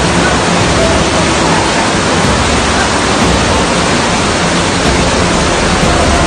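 Loud, steady rushing of water, beginning suddenly with no other sound over it.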